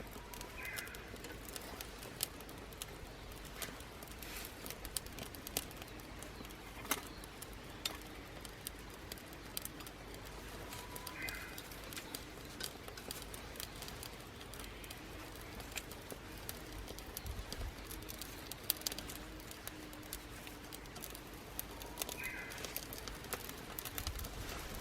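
Small wood fire crackling in a homemade aluminium wood stove: irregular sharp snaps and pops throughout. A bird gives a short falling call three times, about eleven seconds apart.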